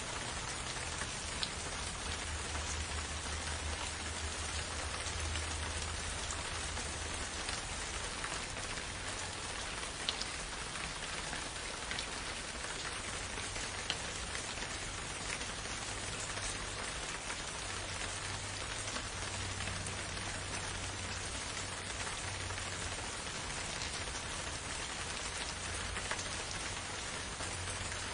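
Gentle steady rain falling in a forest: an even hiss with a few louder single drop ticks, over a low steady rumble.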